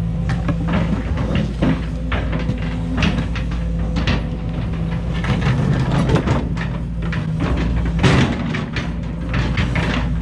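Case 210 excavator's diesel engine running steadily, with a string of clanks and knocks of rock and concrete throughout, the loudest about eight seconds in.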